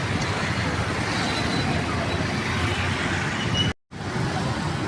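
Steady street traffic noise from passing motor vehicles, broken by a brief cut to silence near the end.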